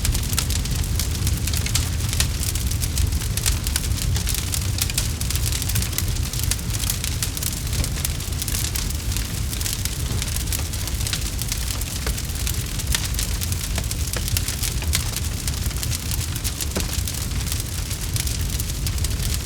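Campfire crackling steadily, with a constant patter of small sharp pops and snaps over a steady low rumble.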